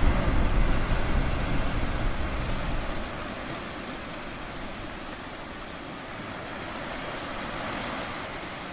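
A low thunder rumble fades away over the first three seconds, leaving a steady wash of ocean surf.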